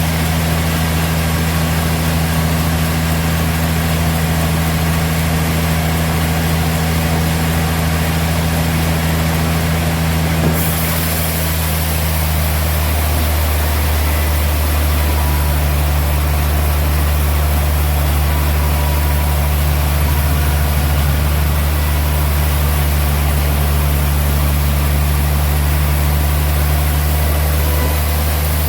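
Sawmill machinery running with a steady, loud engine hum. About ten seconds in the sound shifts: a high hiss comes in and the lowest part of the hum grows stronger.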